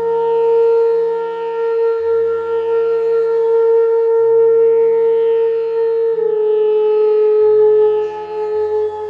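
Bamboo flute holding one long note, stepping slightly lower about six seconds in and wavering near the end, over a low drone that changes notes underneath.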